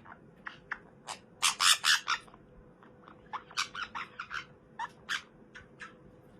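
A pet parrot making a run of short, sharp squawks and chirps, loudest in a cluster about one and a half to two seconds in, over a faint steady hum.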